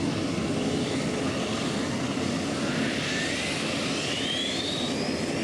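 Rolls-Royce gas-turbine engine of a pulling tractor running with a steady jet-like rush, a high whine rising in pitch through the second half.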